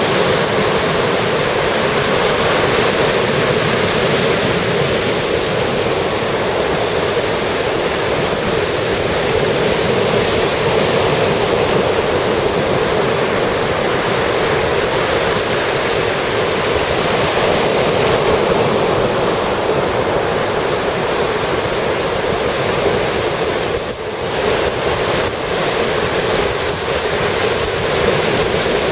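Ocean surf breaking continuously on a sandy beach, a steady rush of waves with a brief lull near the end.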